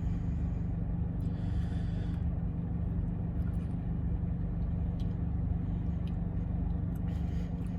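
Steady low rumble of an idling car engine, with a faint brief rustle about a second and a half in.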